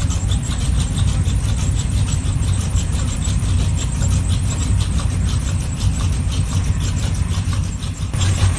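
A car engine running steadily at close range, with a low, even tone and a fast regular pulsing.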